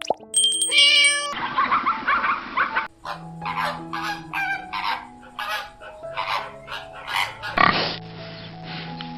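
An animal's calls: a long harsh squeal, then a rapid run of short grunts, over soft background music.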